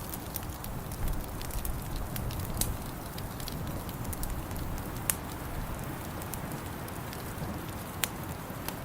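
Wood fire in a fireplace crackling, with scattered small pops over a steady low rumble and two sharper pops about five and eight seconds in.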